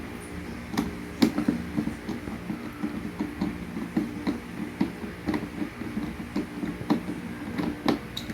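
A screw being driven by hand into the plastic housing of a pressure washer to fix an accessory holder: irregular small clicks and knocks, a few a second, over a steady low hum.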